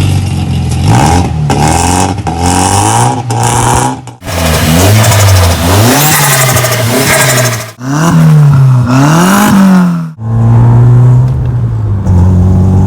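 Volkswagen Mk4 Bora with an aftermarket exhaust, revved repeatedly: the engine note climbs and falls again and again across several clips joined by abrupt cuts. It settles to a steady, even note from about ten seconds in.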